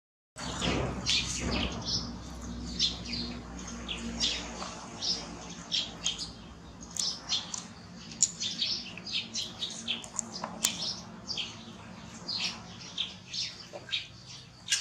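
Small birds chirping on and off throughout, many short high chirps in quick succession, over a low steady hum in the first few seconds.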